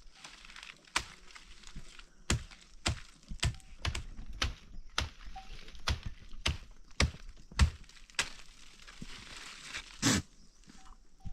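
Steady rain hiss with irregular sharp knocks and taps through it, about one or two a second, the loudest one near the end; the hiss stops shortly before the end.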